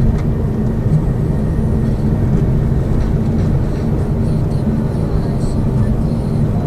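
Lada Vesta Cross driving at a steady pace, heard from inside the cabin: a constant low rumble of road, tyre and engine noise.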